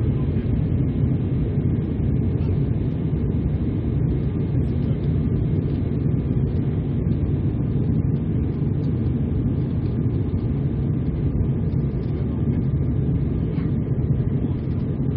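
Steady engine and airflow noise inside the cabin of an Embraer 195 airliner in flight, its General Electric CF34-10E turbofans running evenly. A deep, even rumble with no change in pitch or level.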